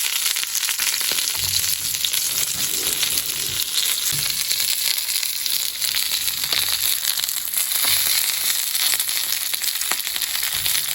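Pelmeni frying in a pan on a portable gas camping stove: a steady sizzle with many small crackles and pops.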